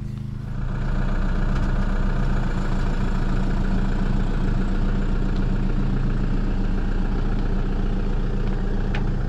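Toyota Hilux four-wheel drive's engine running steadily at low revs as the ute moves slowly forward.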